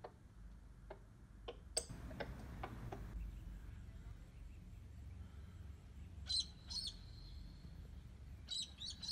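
Faint bird calls: two short chirps about six seconds in and a quick run of chirps near the end, over a low steady background rumble.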